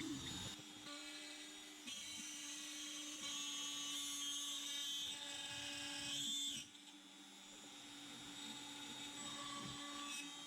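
CNC router spindle running with a steady high-pitched whine as the end mill cuts MDF. Its loudness steps up and down a few times, dropping sharply about two-thirds of the way through and then slowly building again.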